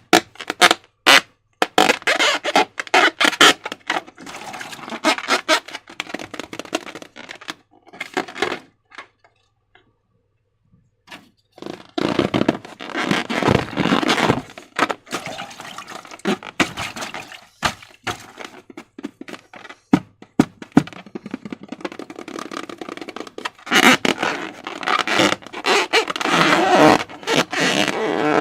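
Slime being squished and worked by hand, a run of sticky clicking, crackling and squelching, with a brief pause about a third of the way in.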